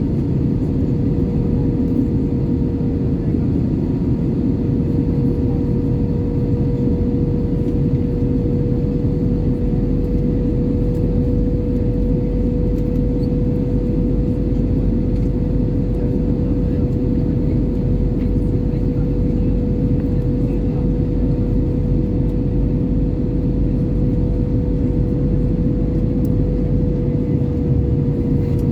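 Airbus A320-214 cabin noise in flight: a steady rush of airflow and CFM56 engine noise, with one constant hum tone running through it.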